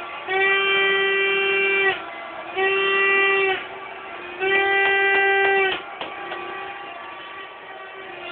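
A horn blowing three long blasts at one steady pitch, the first the longest and the middle one shortest.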